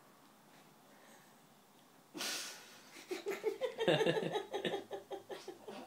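A sleeping dog gives one loud, noisy snore about two seconds in, after a quiet stretch. About a second later a person bursts into laughter that carries on.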